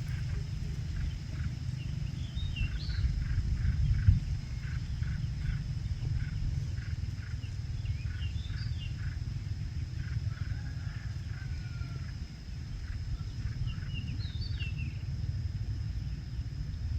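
Wind rumbling on the microphone, loudest about four seconds in, with a bird calling in three short chirping phrases. A steady faint high tone runs underneath.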